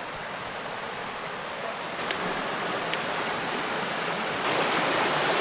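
Flowing stream water rushing steadily, growing louder about two seconds in and again near the end, with two faint clicks in the middle.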